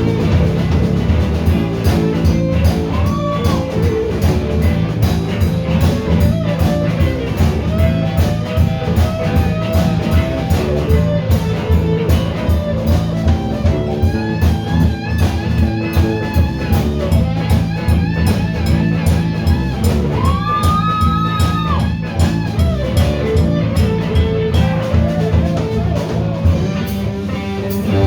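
A blues-rock band playing, with an electric guitar lead over bass and drums; the guitar plays bent, wavering notes, with a long bend about 20 seconds in.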